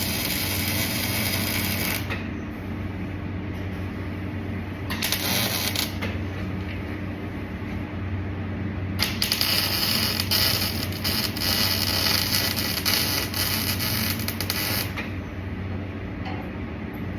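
Welding arc crackling and hissing in three bursts: a short one at the start, a brief one about five seconds in, and a longer one of about six seconds from nine seconds in. A steady low machine hum runs underneath.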